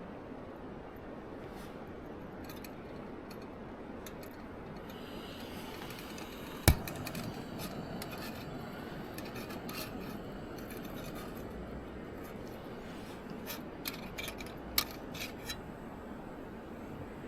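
Light rubbing and scraping handling sounds over a steady hiss, with one sharp click about a third of the way in and a few smaller clicks near the end.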